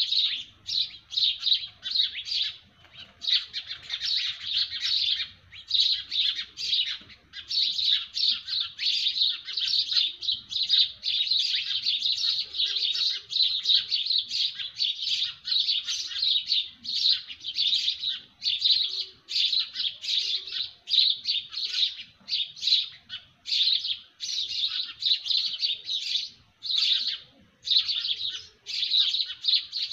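A dense chorus of small birds chirping: rapid, high chirps overlapping almost without pause, with only a few brief gaps.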